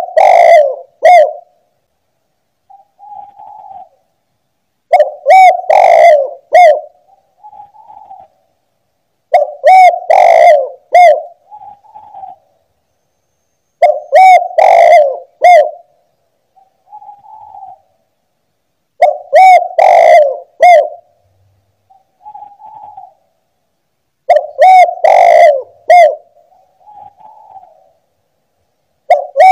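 Spotted dove cooing: a loud three-note coo phrase repeated about every five seconds, with a much fainter short coo between phrases.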